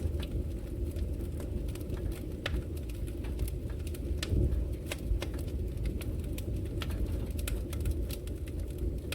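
Wood fire burning in a fireplace: a steady low rumble from the flames with frequent sharp, irregular crackles and pops from the logs.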